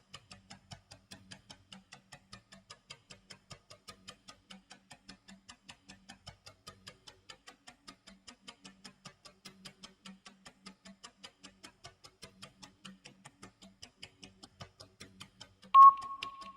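Countdown timer's clock tick-tock sound effect: quiet, rapid, even ticking. Near the end a loud, steady high beep starts, the first of the timer's final ten-second countdown beeps.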